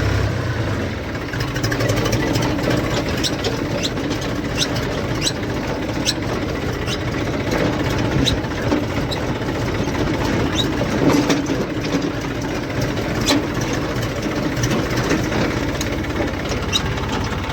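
Tractor engine running under load in fourth gear while driving over a field bund, with a steady low rumble and scattered rattling clicks.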